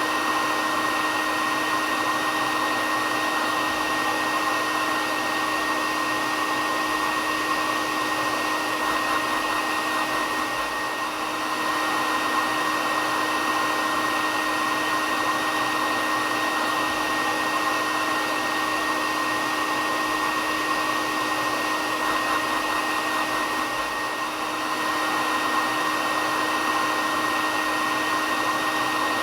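Hair dryer running steadily, a constant blowing noise with a steady whine from its motor and fan.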